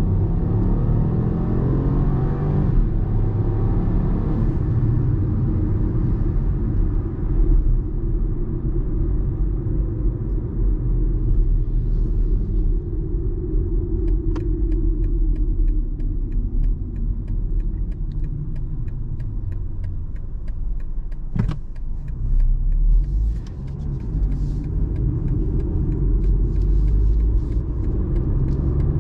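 BMW 118i F40's three-cylinder turbo petrol engine pulling hard under acceleration, its pitch rising and stepping as the dual-clutch gearbox shifts, over a steady low road rumble. A single sharp knock sounds partway through.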